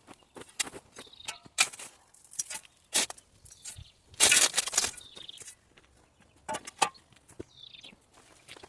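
Irregular scrapes, crunches and knocks of work in stony ground and gravel, with one longer scrape about four seconds in, while a bird chirps now and then.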